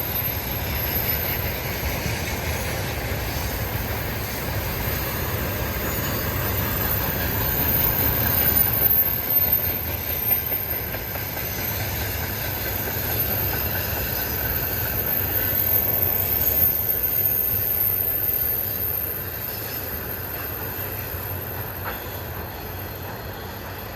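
Freight train of tank cars rolling past: a steady rumble of wheels on rail that eases off over the last few seconds.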